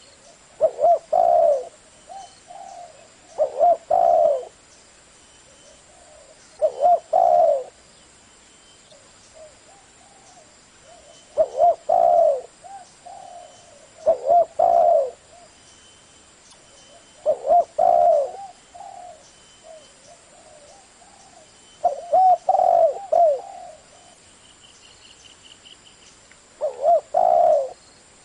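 Spotted dove cooing, repeating its short multi-note coo phrase about eight times, every two to five seconds. Faint high chirps of small birds sound in the background.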